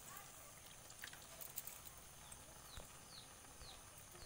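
Near silence: faint outdoor ambience with a few faint clicks, and in the second half about four short, high chirps, each falling in pitch, from a small bird.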